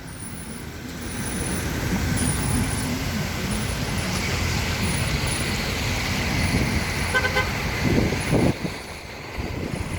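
Road traffic: vehicle engines running and passing with a steady hiss of tyres, and a short car horn toot about seven seconds in.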